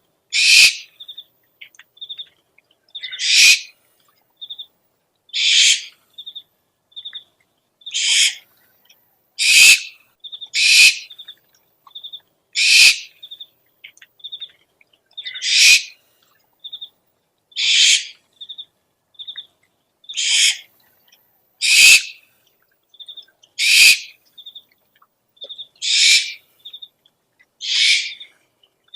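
Owl lure recording: an owl giving a harsh, hissing screech over and over, every one to two and a half seconds, with short, high chirping pips between the screeches.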